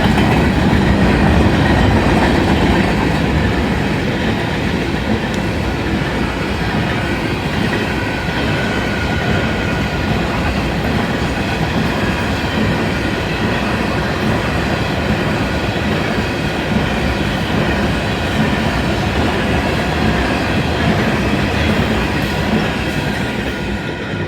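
Union Pacific manifest freight train's cars rolling past fast at a grade crossing: a loud, steady rumble and clatter of steel wheels on rail. It eases a little toward the end as the last cars go by.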